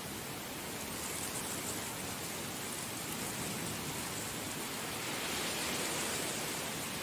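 Heavy rain falling steadily, a dense even hiss that swells slightly near the end.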